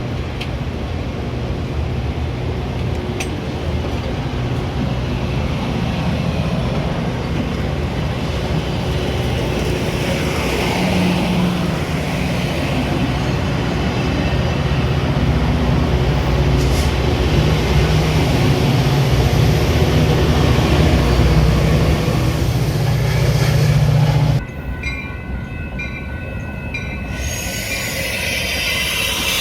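Metra commuter train running on the rails: a steady low drone of engine and wheel noise that builds louder, then drops abruptly about 24 seconds in.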